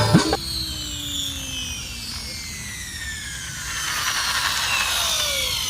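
Synergy 696 RC helicopter's electric motor and rotors spooling down, a whine that falls steadily in pitch over several seconds.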